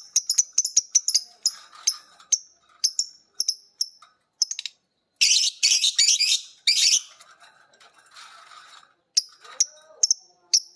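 Lovebirds chirping: a string of sharp, high, clipped chirps, several a second, broken about halfway by roughly two seconds of loud, harsh, rapid chatter (the drawn-out ngekek call), then sparser chirps.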